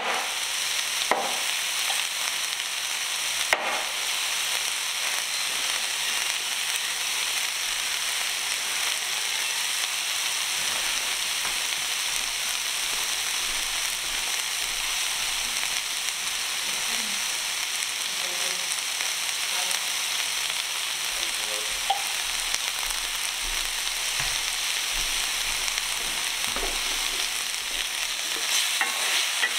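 Sliced bell peppers and onions sizzling steadily in oil in an enameled cast-iron Dutch oven as they soften. A knife taps sharply on a wooden cutting board about a second in and again a few seconds later, and a wooden spoon stirs the pan near the end.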